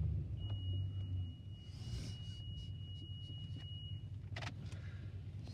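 Automatic car wash machinery heard from inside the car: a steady low rumble, a thin high whine for about three and a half seconds, and a few short hissing bursts.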